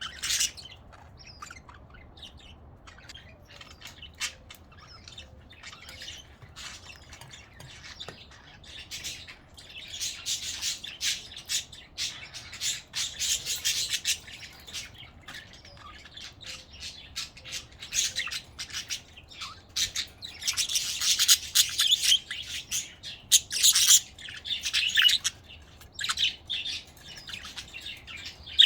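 A flock of pet budgerigars chirping and chattering in quick runs of short calls, busiest about ten seconds in and again around twenty seconds in.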